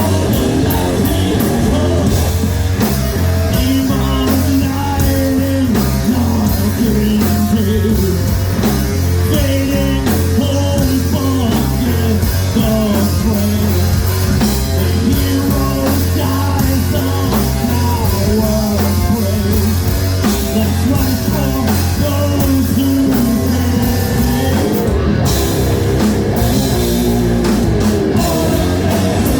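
Rock band playing live, loud and driving, with electric guitar and a drum kit keeping a steady beat; the cymbals drop out briefly near the end.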